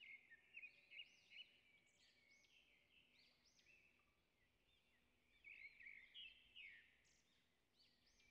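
Faint birdsong: many short, high chirps of small birds overlapping, busiest near the start and again about five to seven seconds in.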